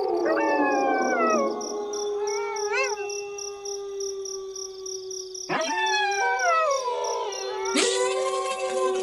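A pack of wolves howling in chorus: long howls overlap, one held steady on a low note while others slide downward in pitch. A short rising-and-falling call comes a little before halfway, and fresh howls join at about two-thirds of the way through and again near the end.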